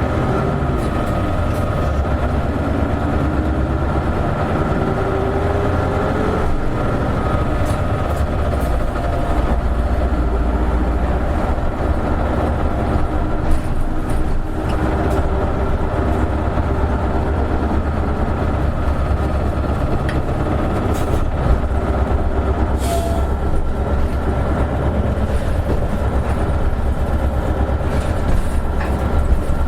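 Inside an Isuzu Erga KL-LV280N1 city bus under way: the diesel engine drones steadily, and a whine rises in pitch over the first few seconds as the bus gathers speed. A few short clicks and rattles come from the body.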